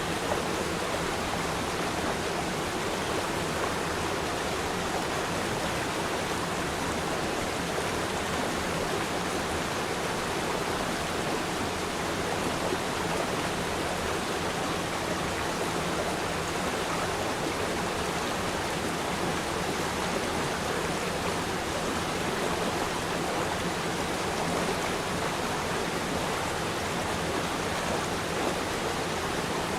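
A river stream flowing and babbling, a steady rushing of water with no breaks or changes.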